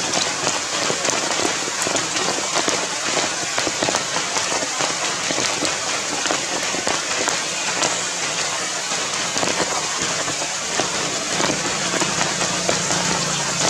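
Steady rain falling on the ground and leaves: a dense, even crackle of many small drop hits.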